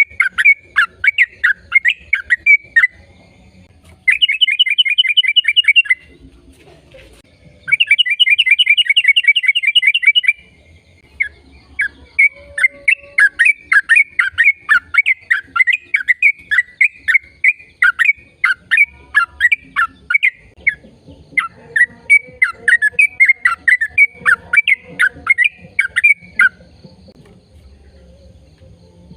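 A bird chirping rapidly and repeatedly, close and loud, breaking twice into a fast, even trill of about two seconds each, the first about four seconds in.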